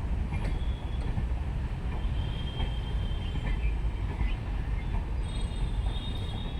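Mahalaxmi Express passenger train running with a steady low rumble, and thin high-pitched squeals that come and go, typical of train wheels squealing on the rails.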